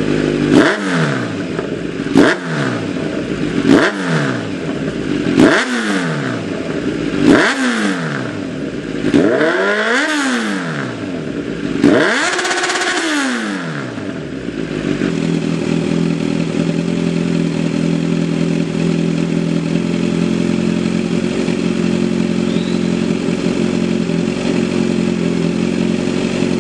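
Kawasaki Z900's inline-four engine through an Akrapovic Shorty full-system exhaust, revved in seven quick throttle blips, each rising sharply and falling back to idle, the last two held longer. About halfway through it settles into a steady idle.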